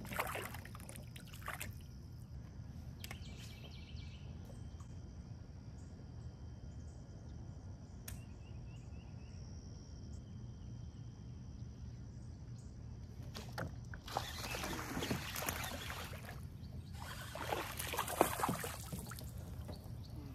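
Water splashing in two rough bursts of about two seconds each near the end, a hooked bass thrashing at the surface as it is reeled in to the kayak, over a steady low background rumble.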